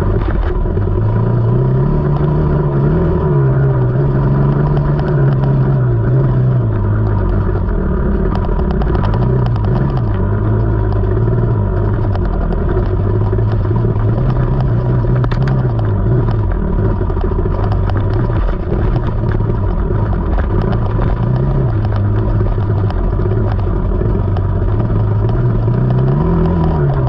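KTM 300 two-stroke dirt bike engine being ridden on a trail, its pitch rising and falling repeatedly as the throttle is opened and closed. Scattered rattles and clicks run through it.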